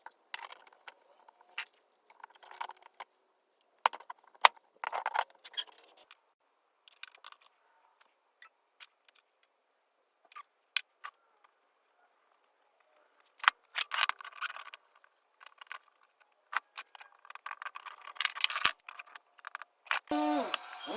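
Scattered clicks, taps and light rattling of small hard objects being handled, in clusters with quiet gaps between.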